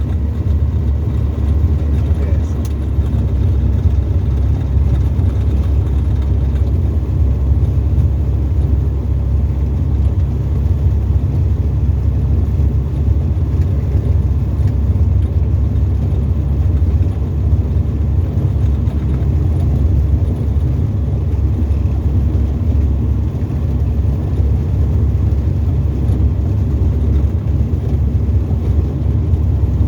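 Tecnam ultralight's piston engine and propeller running steadily, a deep unbroken drone heard from inside the cockpit.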